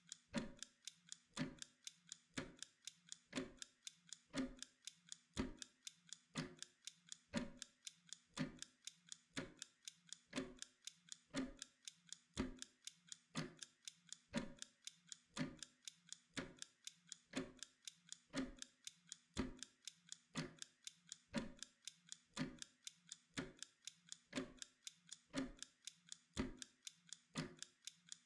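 Mechanical timer ticking steadily, about two ticks a second, alternating a stronger and a weaker tick.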